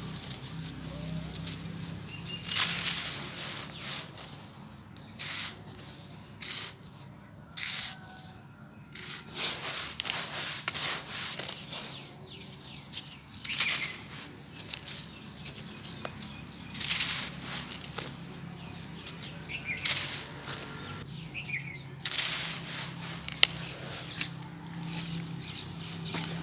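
Grainy sand-cement bowls crumbling in water, making irregular gritty crackling and crunching bursts, some short and some lasting a second or more, over a faint steady low hum.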